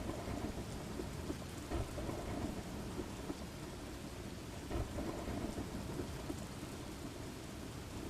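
Thunderstorm ambience: steady heavy rain with a low rolling rumble of thunder that swells a couple of times.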